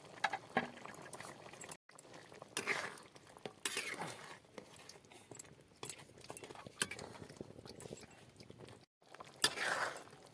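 Kitchen vessels and utensils clinking and knocking lightly, in scattered short bursts.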